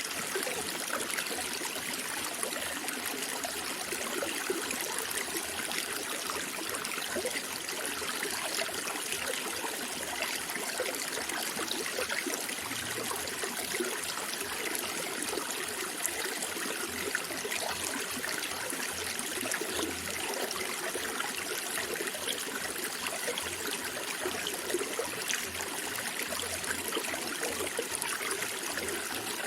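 Running water: a stream trickling and bubbling steadily, an even rush of splashes without change.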